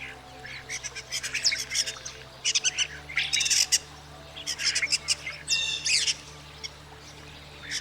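European starling singing: bursts of harsh squawks, clicks and whistles, coming in three or four spells with short gaps between. Soft background music with steady low tones runs beneath.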